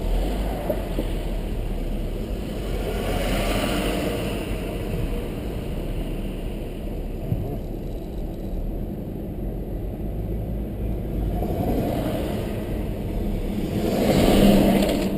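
Car driving along a road, heard from inside: a steady low engine and tyre rumble, swelling a few times and loudest near the end.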